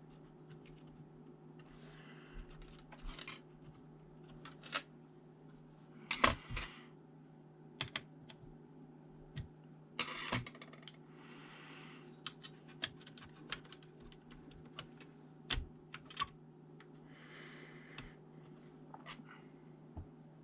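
Hands working on a ThinkPad T400 laptop: irregular plastic clicks and taps, with a few brief scraping rustles, over a steady low hum.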